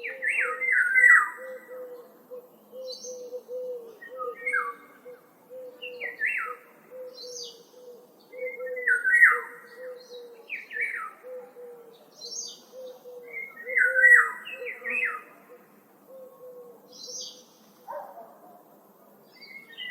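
Woodland birds singing: short, choppy song phrases repeat every couple of seconds, with fainter high notes from another bird. Underneath runs a steady, even string of short low notes.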